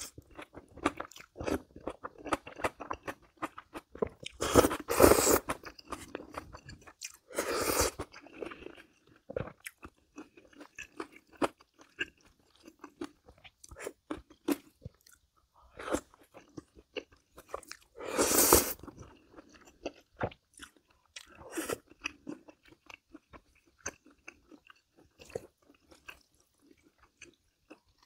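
Close-miked eating sounds from a bibim naengmyeon meal with crisp vegetables: steady chewing and crunching, with a few louder, longer bursts about 5, 8 and 18 seconds in.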